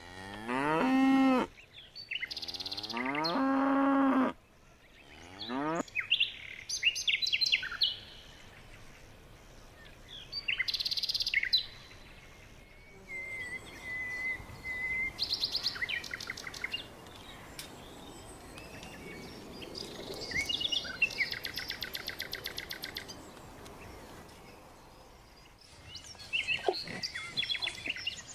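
Two long pitched animal calls, each about a second or two, followed by a run of bird chirps, trills and whistles in many short bursts, with a steady warbling whistle lasting a couple of seconds about halfway through.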